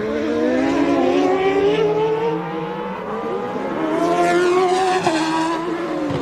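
1990 Formula One car engines at high revs, several at once, their pitch climbing and falling as the cars accelerate and pass.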